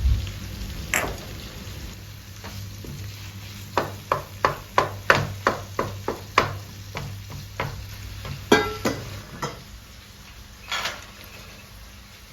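Kitchen utensil work: a quick run of sharp knocks, about three a second, then a few more, over a low steady hum that stops about nine seconds in.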